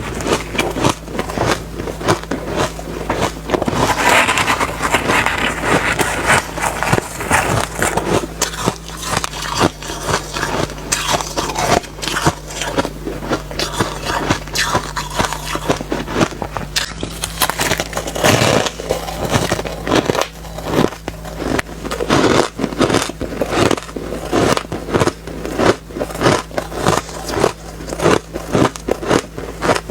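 Refrozen soft ice being bitten and chewed, a continuous run of gritty, sandy crunches with many quick crackles.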